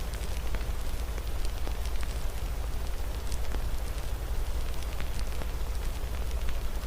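Wood fire crackling with frequent sharp little pops over a steady hiss of rain, with a deep steady rumble underneath.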